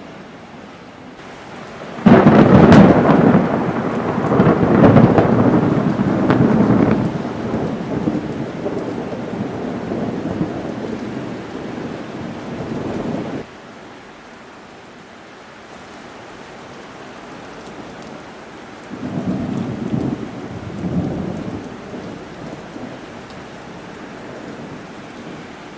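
Heavy rain falling steadily through a thunderstorm. About two seconds in, a loud thunderclap breaks and rolls on for some ten seconds before stopping abruptly. A second, softer rumble of thunder comes later.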